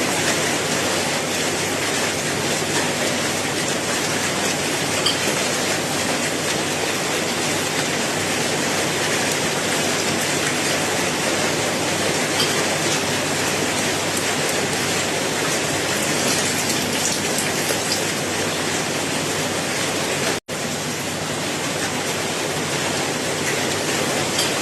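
Steady, dense rain falling, an even hiss with scattered individual drops. The sound cuts out completely for a split second about twenty seconds in, then resumes.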